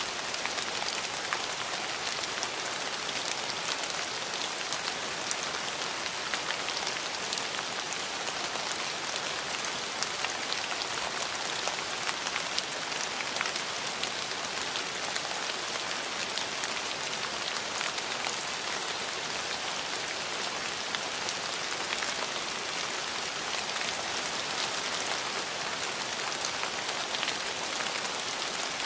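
Steady rain falling on a hard surface, a dense even hiss scattered with many small individual drop ticks.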